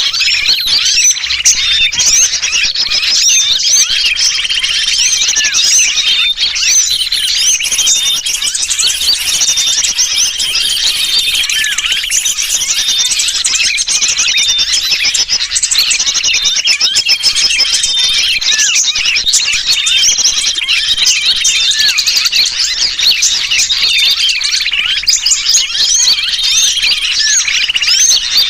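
Bird-lure recording of a dense, continuous chorus of agitated small-bird calls and chirps, mixed with the distress calls of a trapped sooty-headed bulbul. A short, steady high note recurs every second or two through the chatter.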